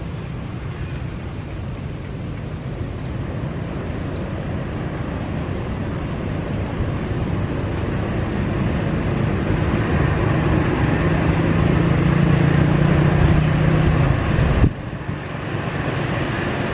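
Jet airliner engine noise growing steadily louder as the aircraft approaches, with a low hum that strengthens toward the end. The sound drops off suddenly near the end, then a quieter rumble continues.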